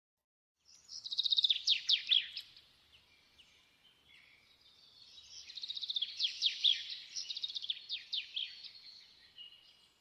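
Small aviary birds chirping in quick twittering runs of high notes, in two spells: a short loud one about a second in and a longer one from about five to nine seconds.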